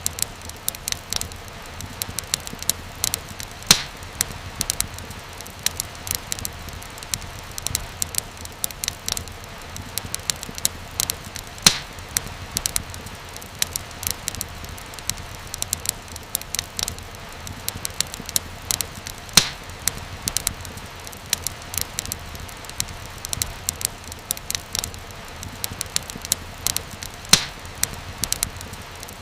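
Wood fire crackling, dense with small snaps and pops, with a louder pop about every eight seconds over a low, steady rumble.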